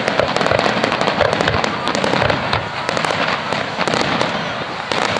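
Aerial firework shells bursting in quick succession. A dense, continuous crackle of many overlapping bangs holds at a steady loud level.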